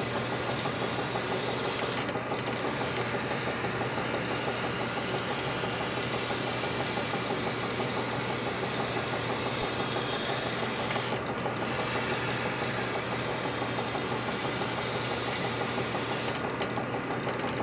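Abrasive paper hissing against a spinning metal part being sanded smooth of its cutting marks, over the steady hum of the machine's motor. The paper is lifted off briefly three times, about two seconds in, about eleven seconds in and near the end.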